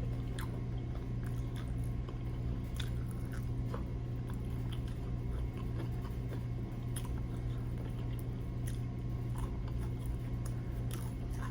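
Someone chewing and biting crispy fried chicken wings, with scattered small crunches and clicks, over a steady low hum.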